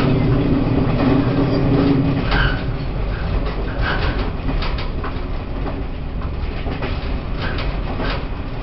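Running noise of a Taiwan Railways E1000 push-pull Tze-Chiang express heard on board: a steady rumble of wheels on rail with scattered clicks. A steady hum fades out about two seconds in.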